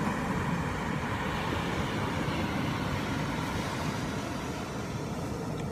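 Steady beach ambience: a continuous even rush of noise with no voices, cutting off suddenly near the end.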